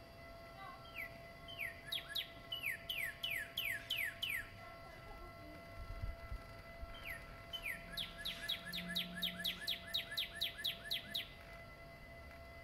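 A songbird singing two phrases of quick, downward-sliding whistled notes that speed up as each phrase goes on, the first starting about a second in and the second about halfway through. A faint steady hum runs underneath.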